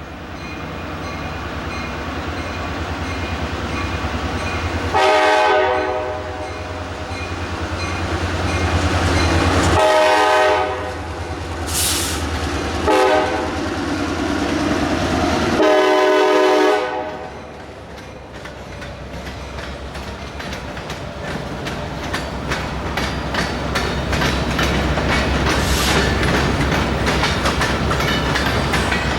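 Diesel freight locomotive, a GP38, sounding its horn in the grade-crossing pattern, long, long, short, long, over the steady rumble of its engine as it pulls past. After the horn the freight cars roll by with a steady clickety-clack of wheels over rail joints.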